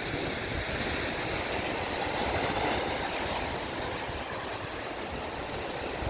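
Strong wind buffeting the microphone over waves washing on a lakeshore: a steady rushing noise with a heavy, fluttering low rumble and no pauses.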